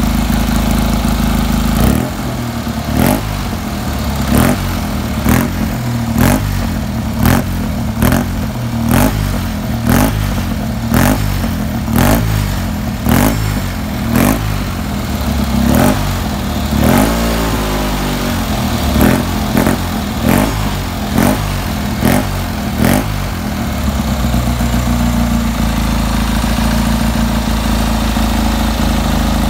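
Tuned 700cc Fiat 500/126 air-cooled two-cylinder engine idling, then revved in short throttle blips about once a second for some twenty seconds, before settling back to a steady idle near the end.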